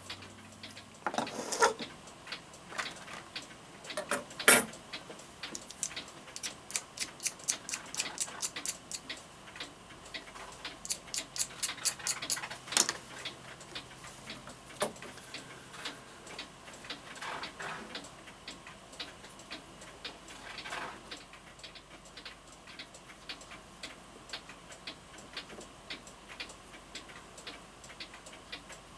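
Antique F. Kroeber mantel clock movement ticking steadily. In the first half there are a few knocks and two runs of rapid clicking.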